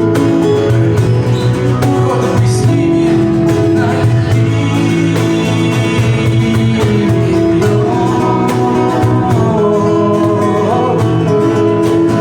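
Live acoustic music: guitar chords strummed steadily, with a melody line that bends in pitch in the second half.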